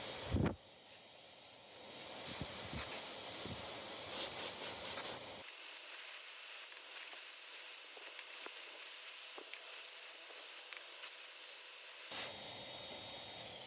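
Compressed air hissing from an air blow gun, blowing ignition-coil tips dry after cleaning with contact cleaner. It starts after a short thump and goes on steadily.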